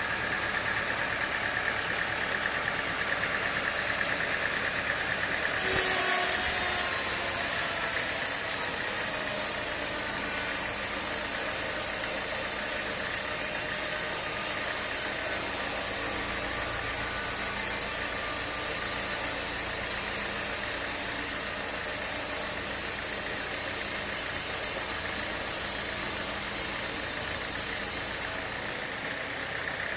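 Sawmill machinery running steadily with an engine-like drone. A loud high hiss sets in about six seconds in and stops shortly before the end.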